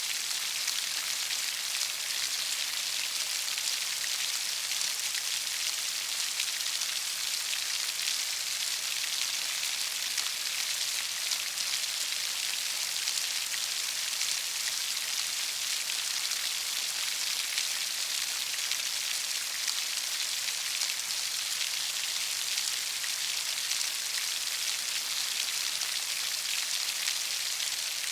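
Heavy rain falling steadily, a dense, even hiss with no change in strength and no thunder.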